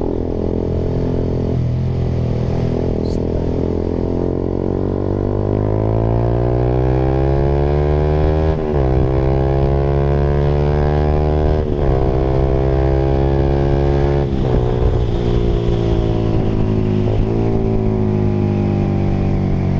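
Honda Sonic 150R's single-cylinder four-stroke engine running through a Proliner TR1R short aftermarket exhaust while riding. It climbs in pitch through the gears, with a sharp break at each shift about four times, and eases off in pitch later on.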